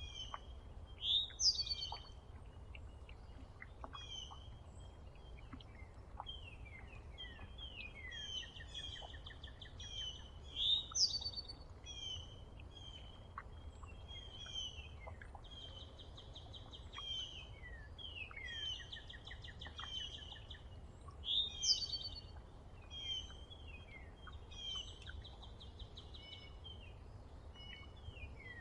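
Several small songbirds chirping and calling, with many short falling chirps and buzzy trills, the loudest sharp calls coming about a second in, near ten seconds and near twenty-one seconds. A steady low rumble runs underneath.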